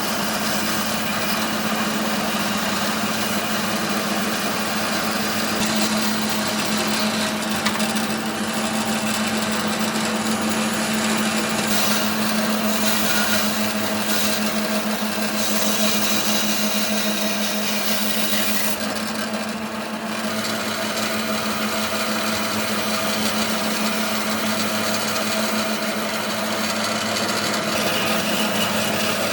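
Woodworking power tool running steadily, with a constant hum and a hiss; the hiss dips briefly about twenty seconds in.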